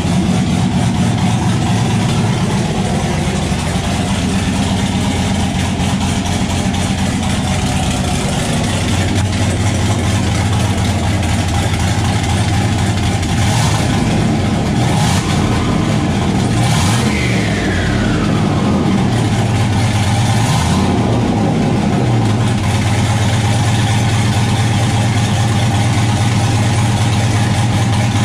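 Turbocharged C6 Corvette V8 on its first run after a turbo install, idling with the turbo outlet open and no downpipe fitted. A few quick throttle blips about halfway through, followed by a falling whine.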